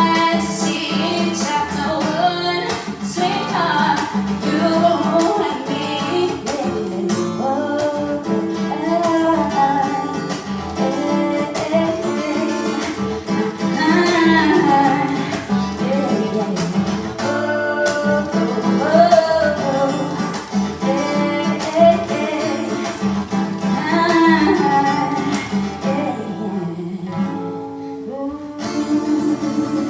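Live acoustic guitar strummed under a singer's voice. Near the end the music drops away briefly, then the guitar starts strumming again.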